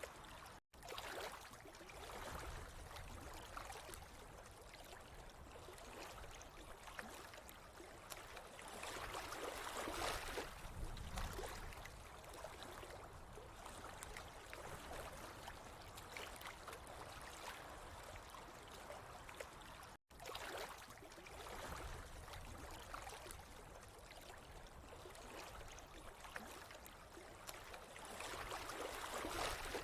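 Water trickling and gurgling as a steady wash, swelling louder about ten seconds in and again near the end. It cuts out completely for an instant twice, near the start and about two-thirds of the way through.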